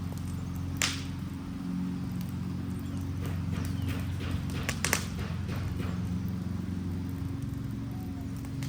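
A wooden Adirondack chair burning in a fire: sharp crackles and pops, with a loud pop about a second in and a burst of them around five seconds in, over a steady low rumble.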